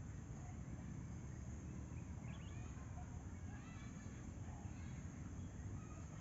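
Outdoor nature ambience: a steady high-pitched insect drone over a low rumble, with a few faint bird chirps in the middle.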